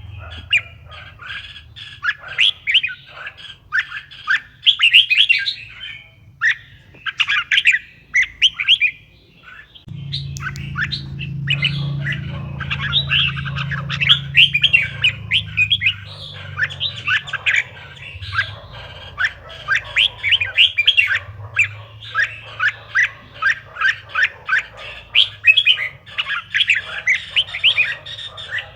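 Red-whiskered bulbul singing: quick phrases of short whistled notes following one another almost without pause. A low steady hum runs underneath and gets louder about ten seconds in.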